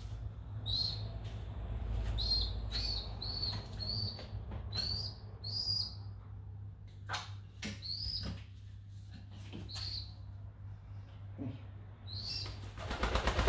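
Short high-pitched bird chirps, repeated one or two a second, over a steady low hum. Near the end, a burst of pigeon wings flapping.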